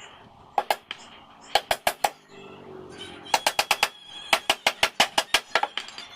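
Sharp strikes in quick bursts on a wooden frame, as from a staple gun or hammer being worked rapidly, the fastest runs coming at about six to eight strikes a second in the second half.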